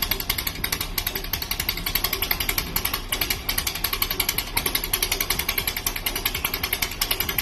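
Air-cooled 2110cc Volkswagen flat-four engine running steadily through a homemade stinger exhaust with no muffler, giving a rapid, even train of exhaust pulses.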